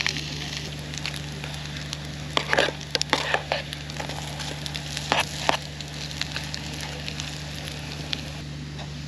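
Hamburger patties sizzling in oil in a skillet over a wood fire. A few sharp clacks and scrapes of a knife blade against the pan come at about two and a half to three and a half seconds in and again around five seconds as the patties are turned. A steady low generator hum runs underneath.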